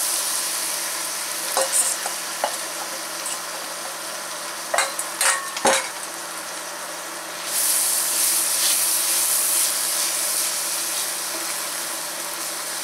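Asparagus sizzling in a stainless frying pan as beaten eggs are poured in, with a few sharp clinks of the whisk and steel bowl against the pan in the first half. The sizzle gets louder about halfway through, and the eggs and asparagus are stirred with a spatula near the end.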